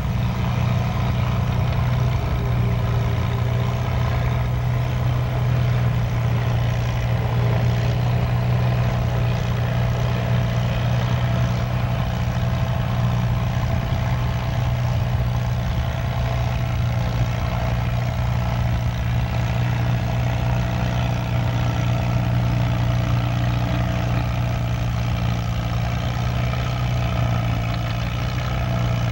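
Antique farm tractor engine running at a steady, even speed, a deep low hum that stays level throughout.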